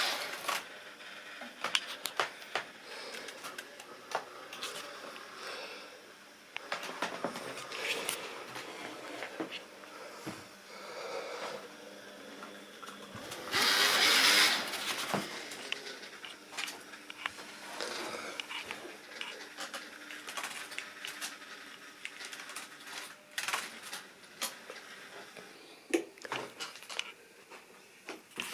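Model railway train running on its track: a small motor running, with irregular clicks from the wheels over rail joints and a brief louder rush of noise about halfway through.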